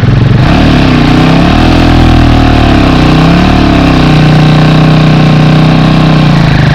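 Motorcycle engine running on the move, its pitch dipping and rising as the revs change, then holding steady for the last few seconds.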